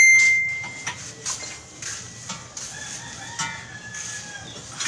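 A rooster crowing: a loud, high call held for about a second at the start, then a fainter, falling call in the middle.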